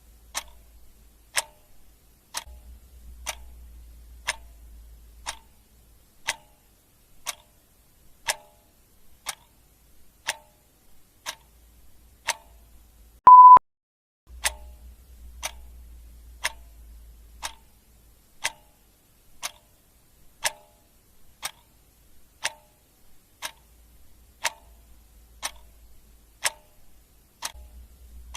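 Clock ticking steadily, one sharp tick a second. About halfway through, a single short, loud beep sounds.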